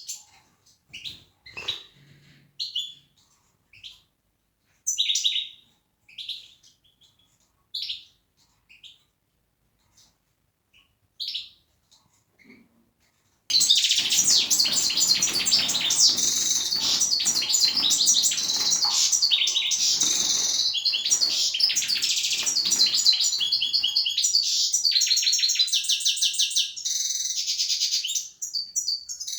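European goldfinch calling: short scattered chirps for the first dozen seconds, then from about halfway through a loud, continuous song of rapid high twittering notes that stops shortly before the end.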